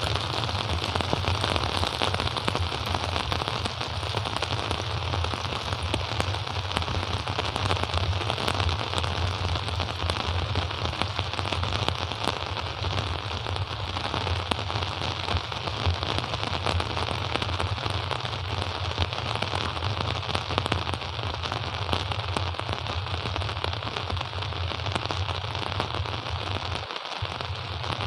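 Steady rain: a dense, even crackle of raindrops with no let-up.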